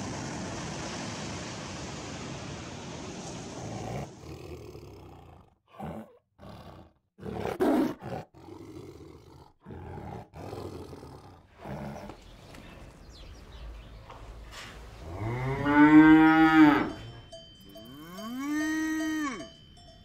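A cow mooing twice: a long, loud moo that rises and falls in pitch, then a shorter one, with the bell on its collar clinking faintly. Before that there is a few seconds of steady noisy hiss, then a few short rough growls from a tiger.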